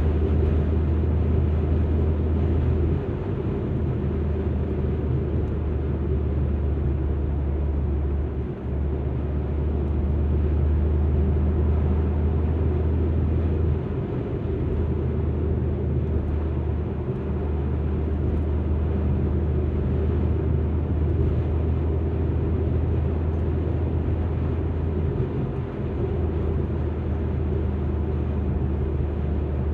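Alfa Romeo MiTo driving, with a steady low rumble of engine and road noise that dips briefly about five times.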